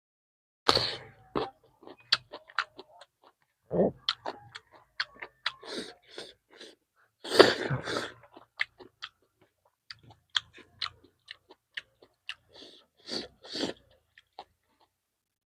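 Close-miked chewing of chicken: irregular wet clicks and lip smacks, with a few louder mouthfuls.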